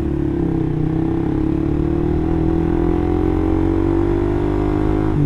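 Suzuki GSX-R150's single-cylinder engine through an R9 Mugello aftermarket exhaust, heard from the rider's seat: a steady deep note that climbs slowly in pitch as the bike accelerates, dipping briefly near the end.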